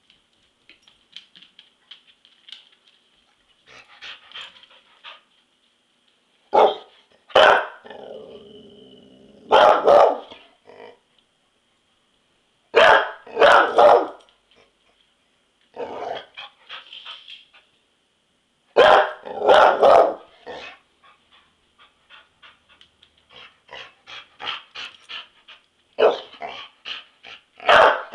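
Dog barking at a ceiling fan in loud pairs of barks every few seconds, with a low growl between barks early on and softer yips in between.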